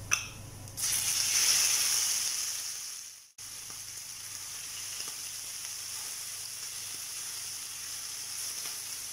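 Prawns tipped into hot oil in a stainless steel frying pan: a light knock at the start, then a loud burst of sizzling about a second in that fades away. After a short break it settles into a steady, quieter sizzle as they fry and are stirred.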